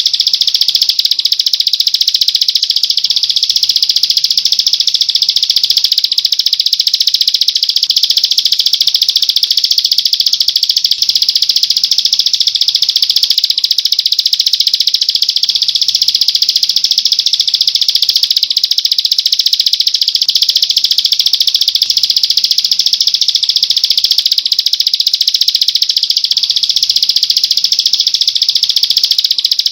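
Small songbird giving a rapid, unbroken high-pitched trill that holds steady throughout.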